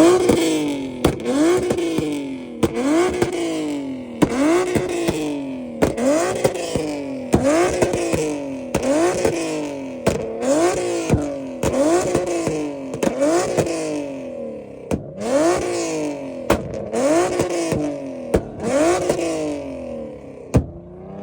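Infiniti car engine revved hard again and again, about once a second, each rev climbing and dropping back, with sharp pops now and then. The revving fades near the end.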